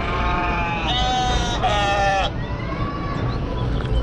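Sheep bleating, dubbed in as a sound effect: three long wavering bleats in quick succession in the first two seconds, then a fainter one, over a steady low background rumble.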